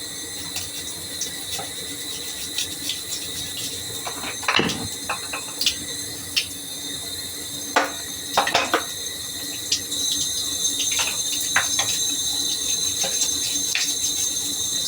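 Tap water running while a vacuum cleaner head is washed and scrubbed with a brush, with scattered clicks and knocks of plastic against the sink. The flow gets louder about ten seconds in.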